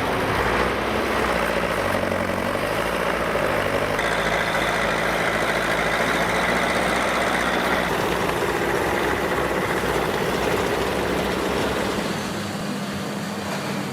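Diesel engines of crawler tractors running steadily under load. The engine sound changes abruptly about four seconds in, and again about twelve seconds in, where it drops a little in level.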